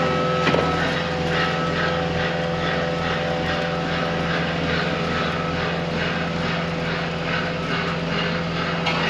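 Skid steer's diesel engine running steadily at a constant speed, a low hum with a few held tones over it, cutting off suddenly at the end.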